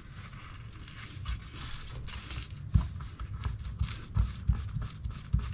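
Small metal parts of a Shimano Stella FE spinning reel being handled and taken apart: irregular light clicks, taps and rubbing, with one sharper click about three seconds in.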